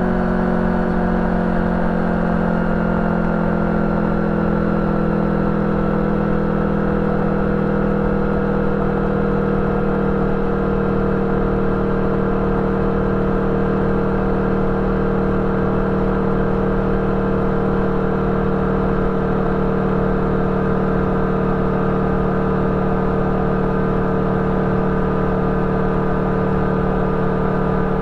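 Yamaha VMAX 1700's V4 engine through an Akrapovič exhaust with dB-killer, running at a steady cruise. Its pitch sags slightly in the first few seconds, then holds level.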